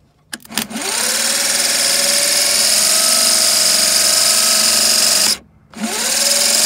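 Electric starter motor from a 1965 Chevy C10 spinning freely under power, winding up with a rising whine to a steady high-pitched run, cutting off briefly and spinning up again near the end. Its pinion is not throwing all the way out, the sign of a fault in the starter's rebuild that the owner puts down to wrongly fitted forks.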